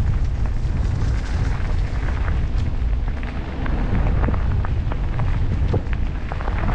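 Wind buffeting the microphone of a camera carried on a moving e-bike: a steady, heavy low rumble, with scattered small clicks and rattles from the ride.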